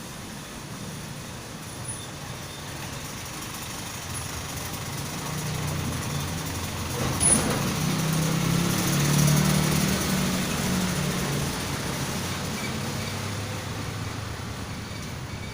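A motor vehicle passing: its engine grows louder towards the middle, then fades away, with one short knock as it nears.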